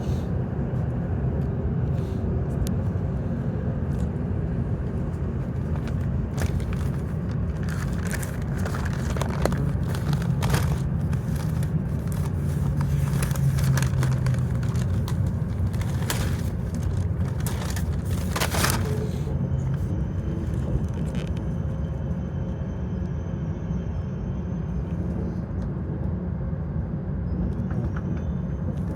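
Cabin running noise of a W7 series shinkansen passenger car at speed: a steady low rumble with scattered sharp clicks and cracks through the middle, and a faint high whine that comes in about two-thirds of the way through.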